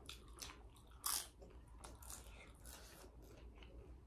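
Close-up eating sounds: food being chewed and bitten, with small crunches and clicks as it is eaten by hand. One sharper, louder click or crunch about a second in.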